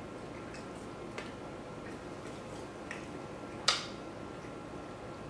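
A man chewing a bite of cheeseburger: a few faint mouth clicks over a steady quiet room hum, with one sharper click about three and a half seconds in.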